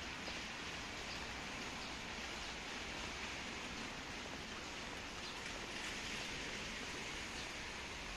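Steady hiss of light rain, with faint scattered drip ticks.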